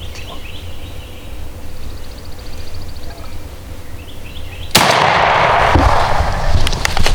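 A turkey-hunting shotgun blast goes off about three-quarters of the way through, followed by a loud rushing noise that carries on for over two seconds. Before the shot, a few faint, short turkey calls.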